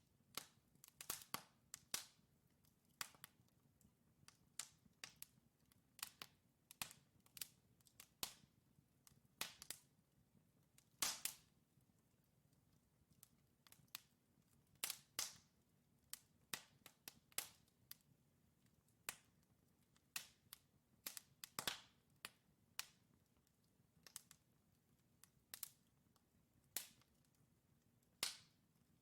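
Wood logs burning in a fireplace, crackling with irregular sharp pops and snaps over a faint, low, steady rush of flame.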